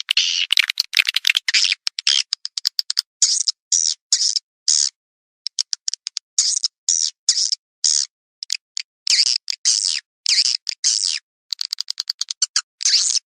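Swiftlet calls from a farmer's lure recording: rapid runs of dry clicks alternate with short, buzzy high chirps, separated by brief dead-silent gaps.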